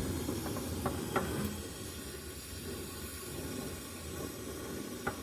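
Gas torch flame hissing steadily at a low setting while heating a seized bolt, with a few faint clicks.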